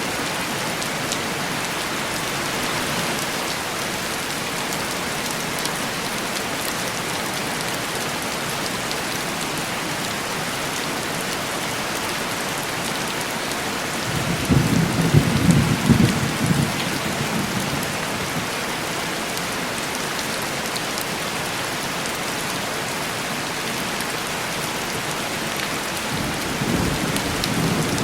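Heavy rain pattering steadily on window glass. About halfway through, a low roll of thunder swells for a few seconds, and another rumble begins near the end.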